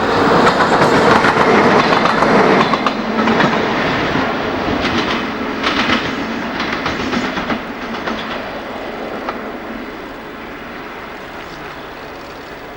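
A freight train hauled by a BR Class 60 diesel locomotive passes close by. It is loudest in the first few seconds, then the wagon wheels clatter over the rail joints, and the sound fades away over the last few seconds.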